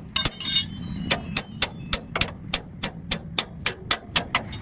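A hammer striking steel leaf-spring leaves in a rapid, even rhythm, about three to four blows a second, each blow ringing. A low steady hum runs underneath.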